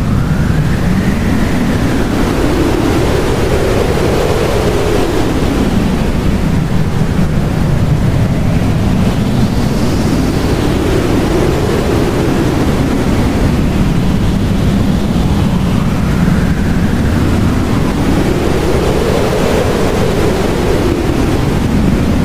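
Blizzard wind: a steady, loud rush of wind with howling gusts whose whistle rises and falls in pitch several times.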